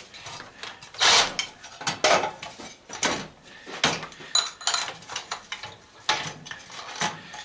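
Irregular metallic clicks, clanks and rattles from metal parts and tools being handled, with a short high ringing clink about four seconds in.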